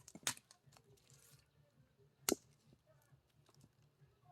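Axe striking a knotty log of firewood twice, two sharp wooden knocks about two seconds apart, the second the louder.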